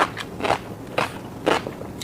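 Close-miked chewing of fish roe: the eggs crunch and pop in crackly bites, about two a second.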